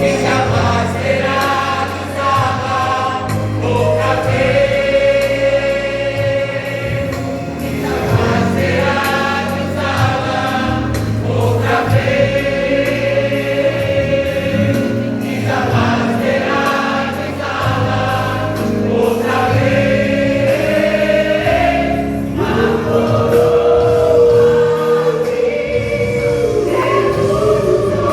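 A vocal group singing a gospel hymn in harmony over instrumental backing, with long held notes.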